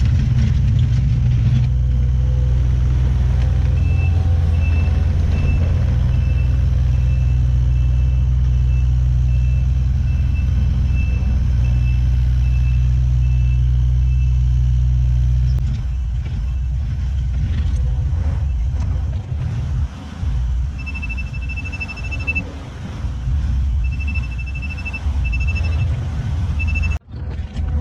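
Diesel engine of heavy earthmoving equipment running, with a back-up alarm beeping over it in repeated short beeps. The engine is loud and steady for the first half, then drops to a lower, uneven running sound as the machine works.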